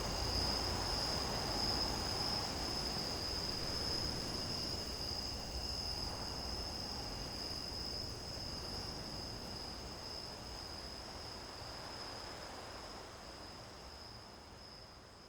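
Crickets chirring in a steady, high-pitched chorus over a faint low background hiss, fading out gradually to the end.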